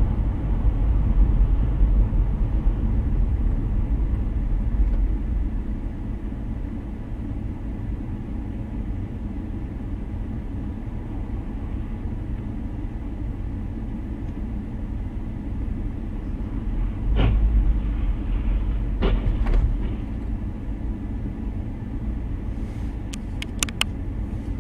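Steady low rumble of a car driving, the road and engine noise heard from inside the vehicle. There are a few sharp knocks about 17 and 19 seconds in and some brief clicks near the end.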